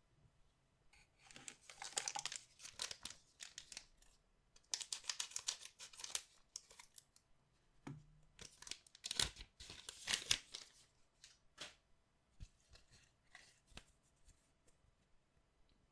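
Wrappers of collectible card packs being torn open and crinkled by hand: three bouts of tearing and crinkling, then lighter rustles and taps.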